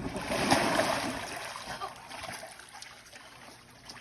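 Water splashing and trickling, loudest in the first second and a half, then dying down.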